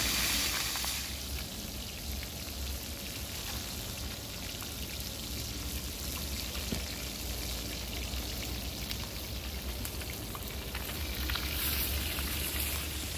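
Fish frying in hot oil on a plough-disc pan over campfire embers: a steady sizzle with scattered spattering crackles, louder for about the first second and then settling.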